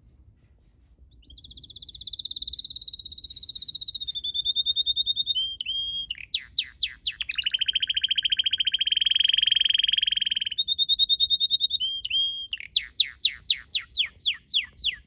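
Red canary singing a long song. It starts about a second in with a high, even trill, breaks into quick downward sweeps, runs a fast buzzy trill through the middle, and ends with another string of downward sweeps.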